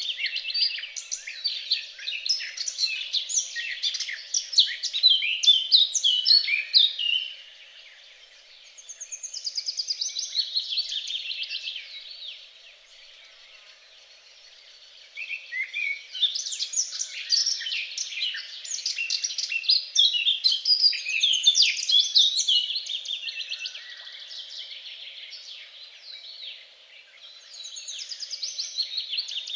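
Songbirds singing long phrases of rapid, warbling twitters and trills, with a lull about twelve seconds in before the song picks up again.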